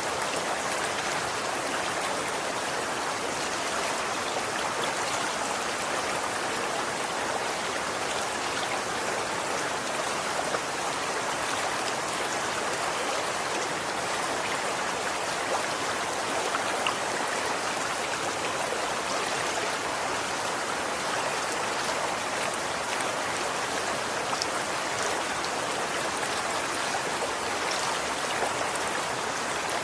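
Running water flowing steadily, an even hiss of a stream with faint splashes and droplets.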